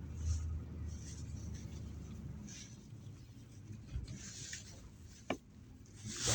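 Low vehicle engine rumble, heard from inside the cab, that drops away about two and a half seconds in, leaving soft rustling handling noises and one sharp click near the end.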